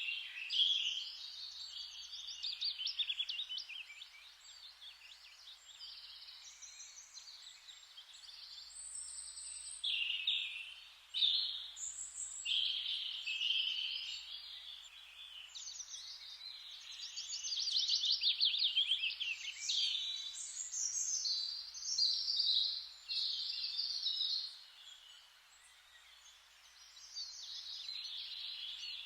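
A chorus of songbirds singing over one another in woodland, a dense run of chirps and rapid trills. Beneath them is a faint steady hiss of forest ambience. The birds ease off briefly a little before the end, then pick up again.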